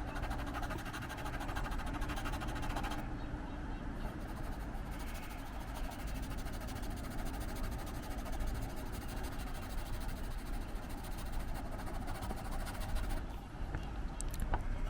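Wind buffeting the microphone outdoors: a steady low rumble with a rushing hiss over it.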